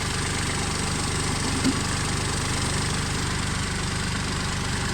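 Kubota tractor's diesel engine running steadily, with one light knock about two seconds in.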